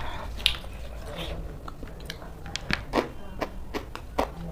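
Close-up chewing of raw shredded cabbage salad: crisp crunches and wet mouth clicks at irregular intervals, the loudest about half a second, three seconds and four seconds in.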